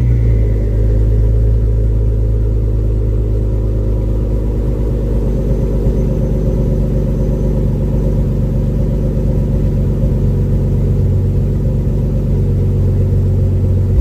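Nissan R32 Skyline's RB straight-six idling steadily on a cold start, through a freshly welded 3-inch stainless steel custom exhaust.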